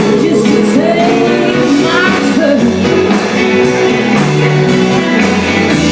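Live band playing a rock song with a singer's voice, guitar and drums, loud and steady throughout.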